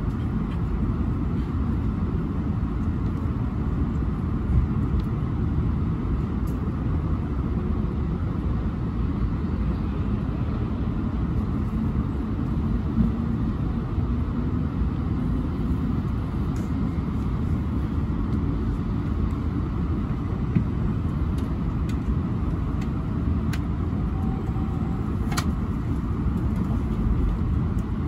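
Steady low running rumble inside the cabin of an E7/W7-series Hokuriku Shinkansen train pulling out of the station, with a few faint clicks.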